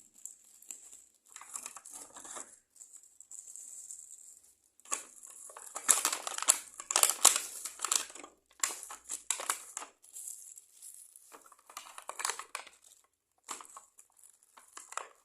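Plastic parcel packaging crinkling and rustling in irregular bursts as it is handled and opened, loudest from about five to ten seconds in.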